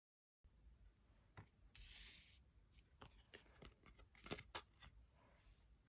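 Faint handling of tarot cards: a brief sliding rustle about two seconds in, then several light clicks and taps.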